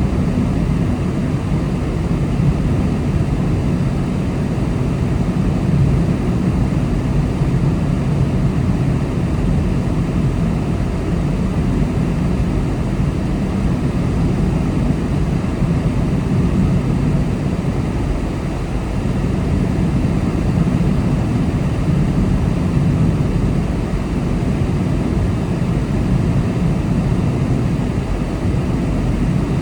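Steady drone of a car driving along a road: engine and tyre noise at a constant pace.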